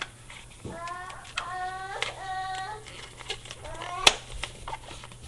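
Latex 260 modelling balloon squeaking as it is twisted into a tiny balloon dog: several rubbery squeaks that step in pitch through the first three seconds, with light rubbing clicks. A single sharp snap about four seconds in is the loudest sound.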